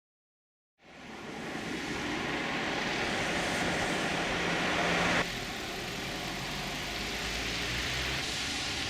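Model railway trains running on an H0 exhibition layout: a steady rushing, hissing running noise with a faint low hum. It comes in about a second in and drops abruptly in level a little past halfway.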